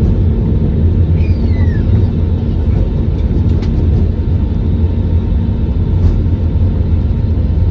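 Steady low rumble inside an airliner's cabin as the plane comes in to land: engine and airflow noise heard from a passenger seat.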